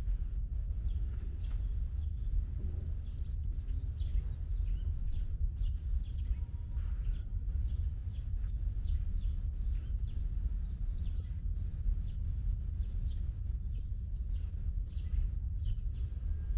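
Small birds chirping, many short calls one after another, over a steady low rumble.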